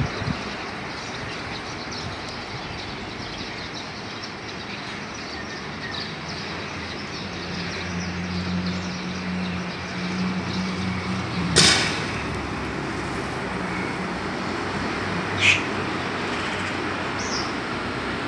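Outdoor ambience with a steady background rumble of traffic. A motor vehicle's engine hum swells in the middle and passes, followed by a sharp knock, with a few short bird chirps later on.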